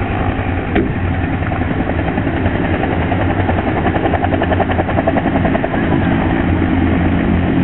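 Aircraft engine noise overhead: a steady drone with a fast, regular pulsing beat, growing a little louder toward the end.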